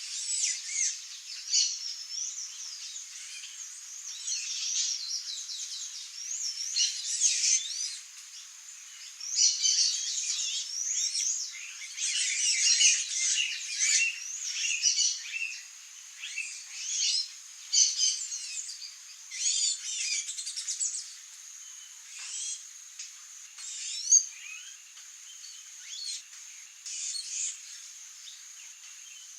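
Songbirds singing in quick, high, warbling phrases a second or two long with short pauses between, over a steady high-pitched insect drone.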